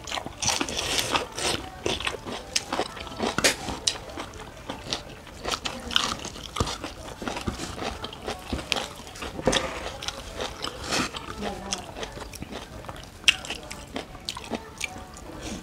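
Close-up eating sounds: irregular crisp crunches and chewing as raw green vegetables and rice with curry are bitten and chewed, with wet mouth sounds between bites.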